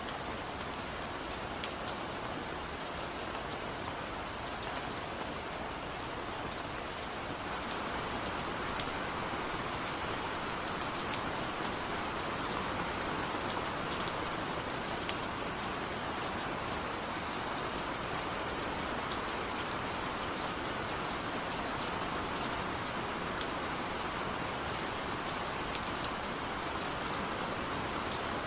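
Steady rain falling, an even hiss with scattered sharp drop ticks, growing slightly heavier about eight seconds in.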